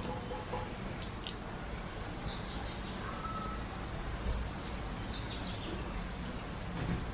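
Small birds chirping in two short runs of high calls, about a second in and again around halfway, over a steady background hiss and low rumble.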